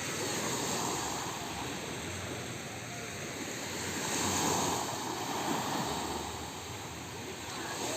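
Sea water washing and lapping, with wind buffeting the microphone; the wash swells up twice.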